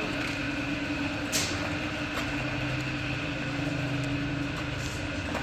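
Vehicle engine running steadily with a constant hum, and a single sharp click about a second and a half in.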